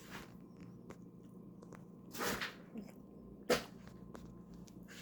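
Faint chewing and mouth sounds of someone eating, with a brief voice-like sound about two seconds in and a sharp click about three and a half seconds in.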